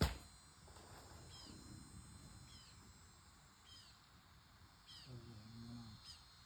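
A bird calling over and over, a short high falling chirp about once a second. A sharp knock right at the start, and a brief low hum about five seconds in.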